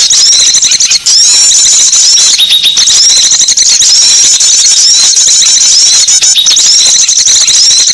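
A dense chorus of small songbirds, many high-pitched chirps and twittering whistles overlapping almost without a break: a bird-lure call recording used to draw small birds in.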